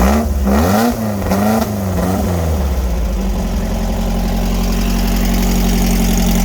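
VW sandrail engine revved up and down a few times in quick succession over the first couple of seconds, then settling into a steady idle while it warms up from a cold start.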